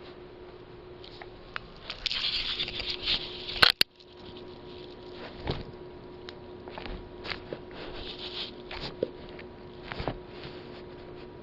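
A rottweiler-chow mix dog's claws scrabbling and pattering on a hard floor as it chases a laser dot. The scratching is densest about two seconds in and ends with a sharp click, followed by scattered taps and scrapes. A faint steady hum runs underneath.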